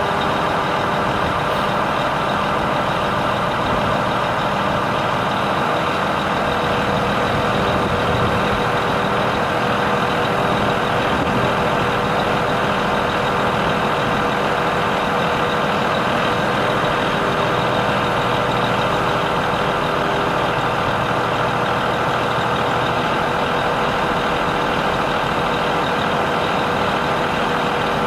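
DAF CF85 truck's diesel engine running steadily at a constant speed, with a steady whine on top.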